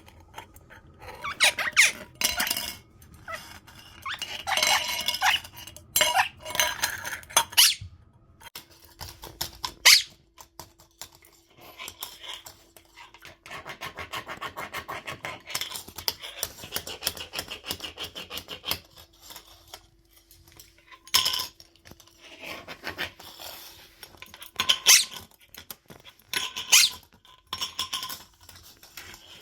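Quaker parrot giving repeated short, high chirps and squeaks while playing, with sharp knocks and a stretch of rapid clicking from small plastic toys being tossed and rolled on a hard floor.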